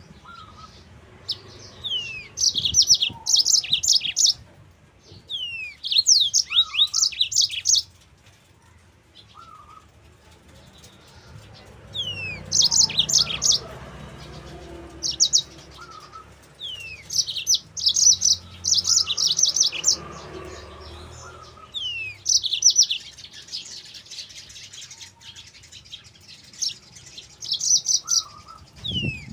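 Yellow-fronted canary (Mozambique canary) singing: repeated short phrases of rapid, high, chattering notes, each opening with a quick falling whistle, with pauses of a second or two between phrases.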